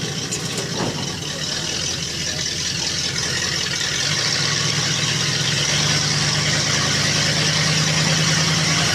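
Monster truck's engine running and slowly growing louder, with a steady low drone settling in about halfway through.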